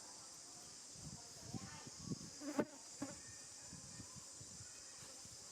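A steady, high insect chorus runs throughout. Between about one and three seconds in there are a few soft rustles and thumps and a brief pitched sound, with a sharp click about two and a half seconds in as the loudest moment.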